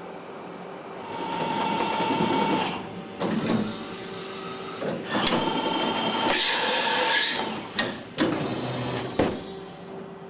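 Toyada FH630SX i horizontal machining center at work: repeated bursts of hiss with a steady whine, and a few sharp clunks in the second half.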